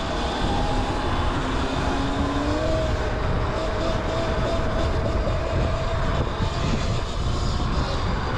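Electric dirt bike motor whining steadily while riding, with a slowly rising tone, over a heavy rumble of wind on the microphone.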